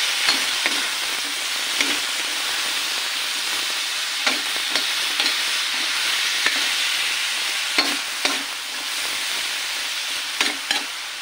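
Sliced bitter gourd and chicken sizzling in hot oil in a wok, a steady hiss, while a spatula stirs them, scraping and knocking against the pan now and then.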